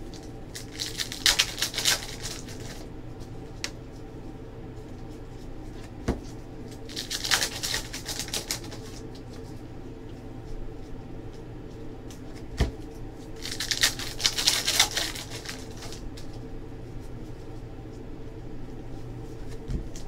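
Basketball trading card packs and cards being handled: three bursts of rustling from wrappers and cards, about six seconds apart, with two single light knocks between them.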